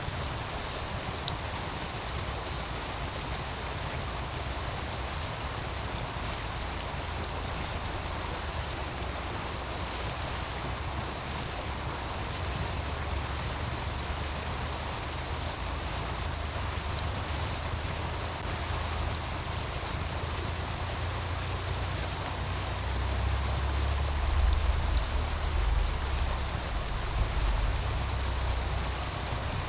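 Running stream of meltwater beside a crackling campfire: a steady rush of water with scattered sharp pops and crackles from the fire. A low wind rumble on the microphone swells near the end.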